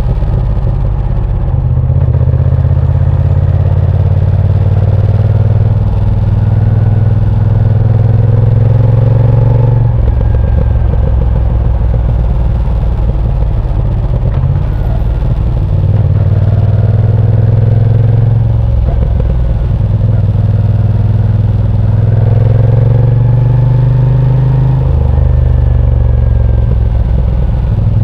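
Moto Guzzi V7 Sport's air-cooled transverse V-twin running under way. The engine note rises as it pulls and drops back several times, at gear changes and when the throttle is eased.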